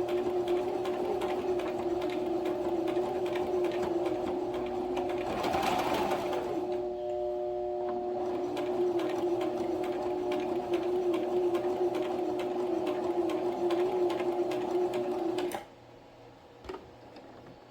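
Electric sewing machine stitching a practice line: a steady motor hum with fast, even needle strokes that cuts off suddenly about fifteen seconds in, followed by a faint click near the end.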